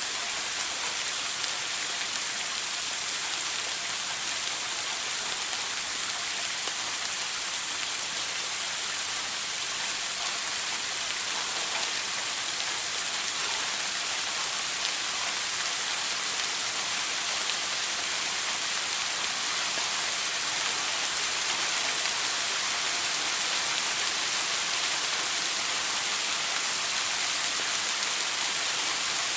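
Shower water spraying steadily: an even, unbroken hiss of falling water.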